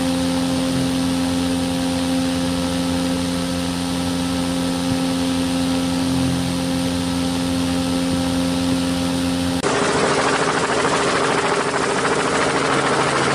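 Small DC motor of a homemade matchbox helicopter spinning its propeller, a steady whine. About ten seconds in the sound changes abruptly to a noisier buzz with a higher tone.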